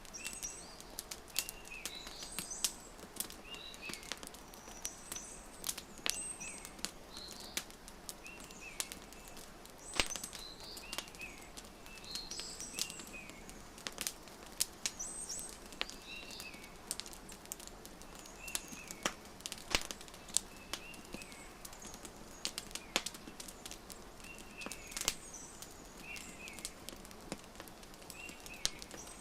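Wood fire crackling with frequent sharp pops, while small birds chirp short repeated calls every second or two.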